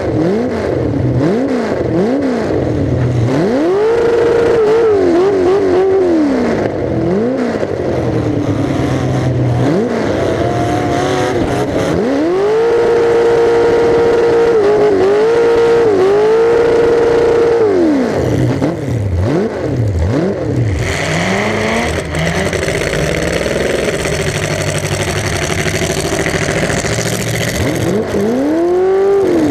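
Demolition derby car's engine, exhausting through open stacks straight up out of the hood, revving hard over and over. The pitch sweeps up and down repeatedly and is held high twice, briefly and then for about five seconds.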